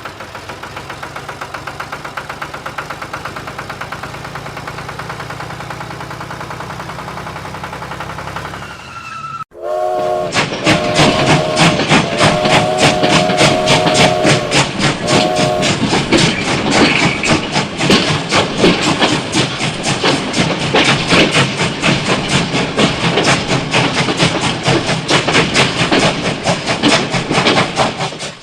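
A small motor runs steadily. After a sudden cut, a toy train's horn sounds a chord of several tones in three blasts, the middle one longest, over a loud, fast, dense clatter that carries on.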